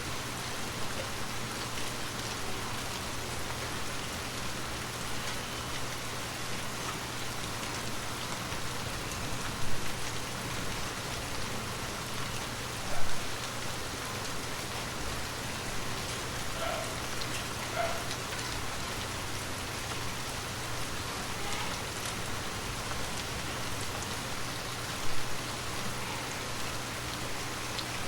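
Gentle rain falling steadily, an even constant hiss with a faint low hum underneath. Three brief louder knocks stand out: about ten seconds in, about thirteen seconds in, and near the end.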